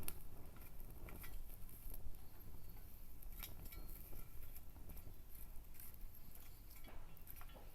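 Small wood fire crackling in a mini fire stand, with scattered sharp pops every second or so over a low, even background.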